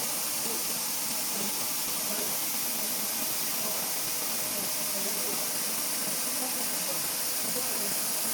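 Large-format fiber laser marking machine running on a mirror, giving off a steady, even hiss.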